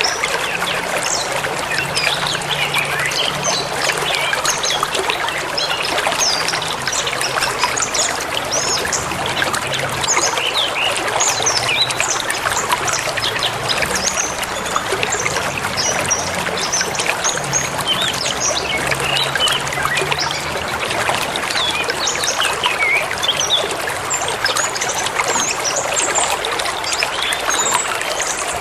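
A forest river flowing steadily, with many birds chirping in short, quick calls over the water throughout.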